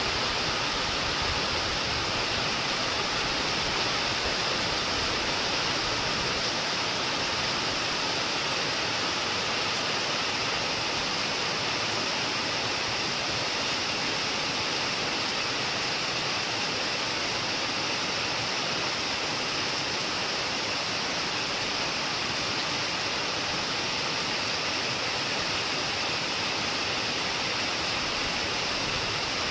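Heavy rain pouring down steadily, a dense even hiss without breaks.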